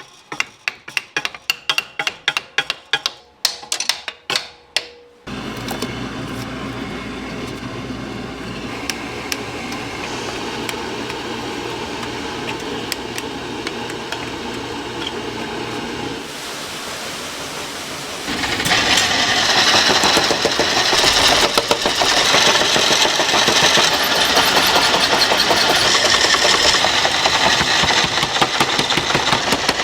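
A quick run of about a dozen sharp knocks, then a machine running steadily, which grows louder with a fast rattle from about 18 seconds in.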